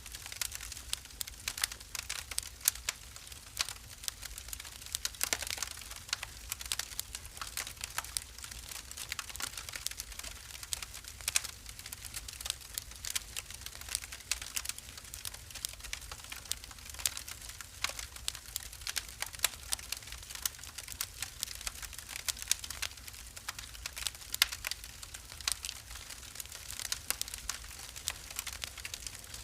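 Wood fire burning in a fireplace, crackling and popping continually with many small sharp snaps over a low steady rumble.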